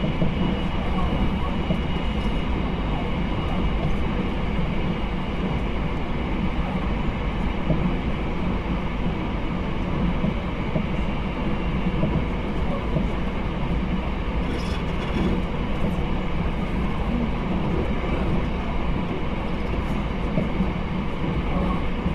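Steady running noise heard inside a JR Hokkaido 789 series 1000-subseries electric train at line speed, mostly a low rumble of wheels on rail that holds even throughout.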